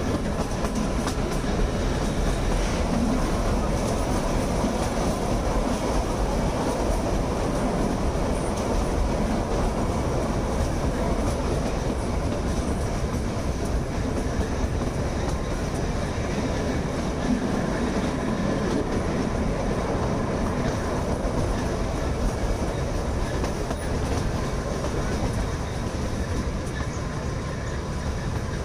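Kalka–Shimla narrow-gauge toy train running steadily, heard from inside a moving coach at an open window: continuous noise of the wheels on the rails and the coaches in motion.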